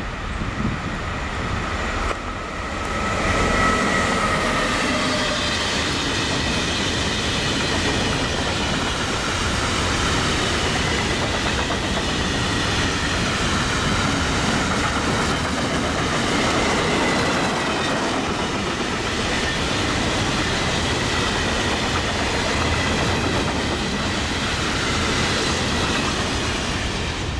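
Long freight train of open bulk wagons, hauled by an electric locomotive, rolling past close by. Its wheels keep up a steady rumble and clatter on the rails, growing louder about three seconds in as the train draws level, with a faint high wheel squeal over it.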